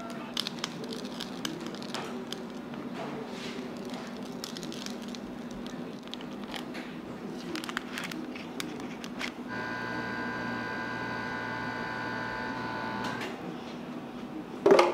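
Kitchen work sounds: scattered light clicks and clinks over a steady low hum, then a machine running at a steady pitch for about three and a half seconds, and a loud knock near the end.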